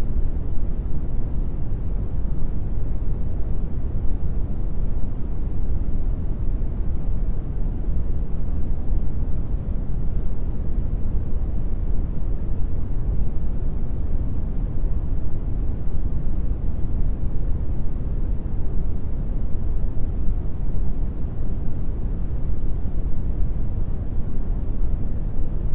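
Steady synthetic brown noise: an even, deep rumbling hiss with most of its energy in the bass, unchanging throughout.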